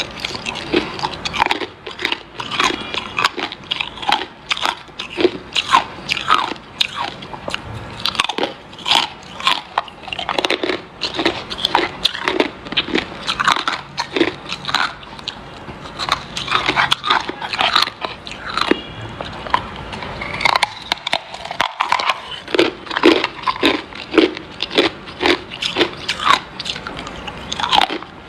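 Hard ice being bitten and chewed close to the microphone: a dense, irregular run of sharp cracks and crunches, several a second.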